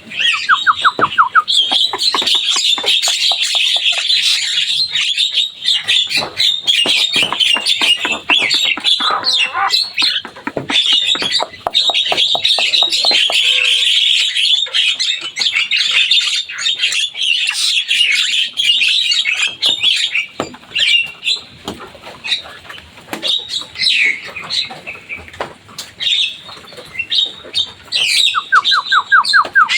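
Javan myna (jalak kebo) singing a long, busy song of rapid, varied chattering notes and clicks. There is a quick run of about ten evenly spaced notes at the start and again near the end, and the song thins out for a few seconds past the middle.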